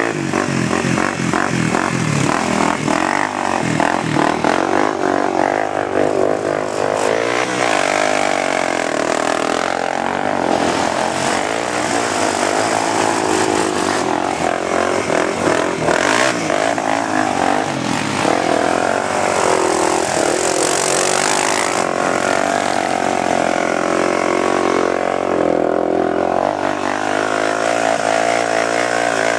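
A big off-road truck's engine revving hard, its pitch climbing and falling again and again.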